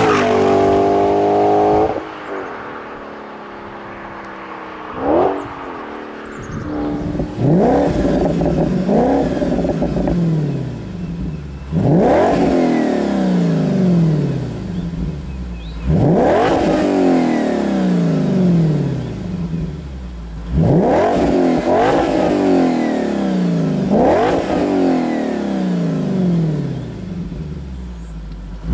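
Supercharged 4.2L FSI V8 of an Audi B8 S5 through an APR RSC straight-through performance exhaust, revving hard and falling back several times. After a quieter stretch with one brief rev, the pitch rises sharply and then falls away about four times in a row.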